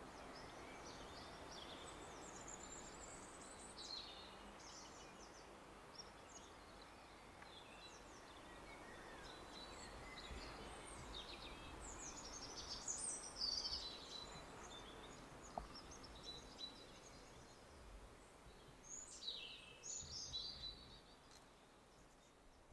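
Faint outdoor ambience with scattered songbird chirps and short trills, a little busier about halfway through and again near the end.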